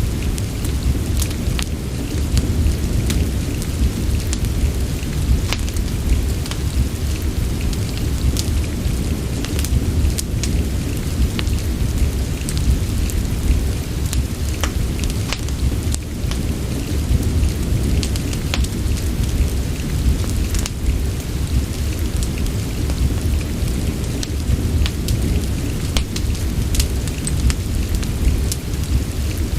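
Steady rain mixed with the irregular crackles and pops of a wood fire in a fireplace, over a deep continuous rumble.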